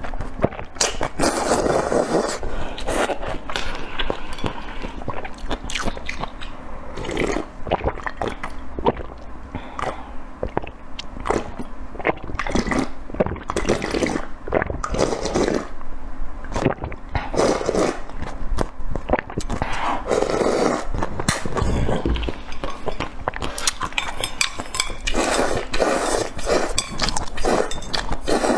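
Close-miked eating: wet chewing and mouth sounds with many small clicks and smacks, going on without a break.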